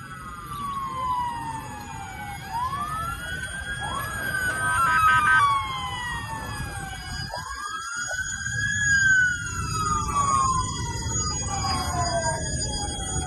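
Several emergency-vehicle sirens wailing at once and overlapping. Each rises quickly and then falls slowly, over a steady low background rumble.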